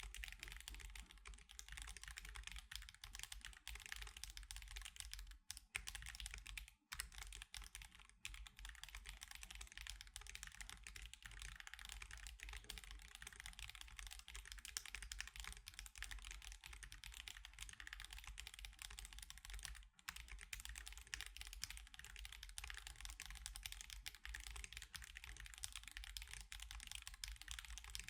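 Fast, continuous typing on an Akko Alice Pro mechanical keyboard fitted with Akko CS Crystal linear switches and osumekeys Sakura and Mochi keycaps: a dense patter of key presses. It breaks off briefly a few times, around six and seven seconds in and again around twenty seconds in.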